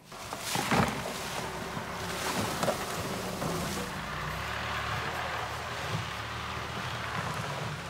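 Skoda Yeti's engine running under load as the car drives off-road through brush, with wind noise on the microphone. A brief louder sound comes about a second in.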